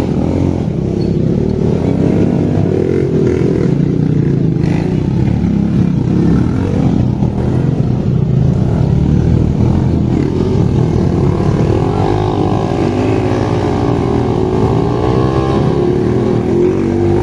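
Motocross dirt bike engines running and revving, their pitch rising and falling, most clearly in the last few seconds.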